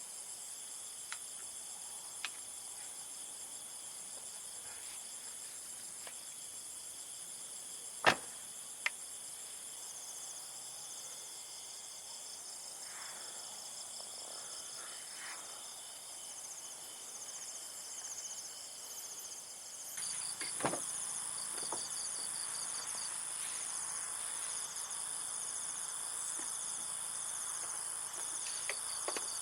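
Steady high-pitched chorus of insects chirring, with a few sharp clicks, the loudest about eight seconds in. About two-thirds of the way through, the chorus changes abruptly to a louder, pulsing one.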